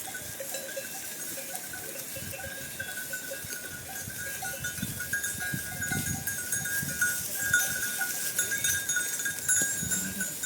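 Many bells on a herd of goats and sheep, clinking and ringing continuously as the animals move.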